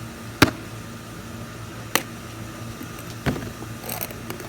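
A baseball bat striking a metal can: three sharp hits about a second and a half apart, the first the loudest, then a few small clicks near the end, over a steady low hum.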